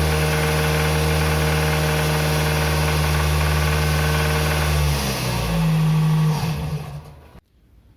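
Toyota RAV4's 2.0-litre 1AZ-FE four-cylinder engine running steadily at about 2200 rpm, the speed at which it knocks; the mechanic takes the knock for a worn connecting-rod bearing. About five seconds in the revs drop, rise briefly, then the sound fades and cuts off.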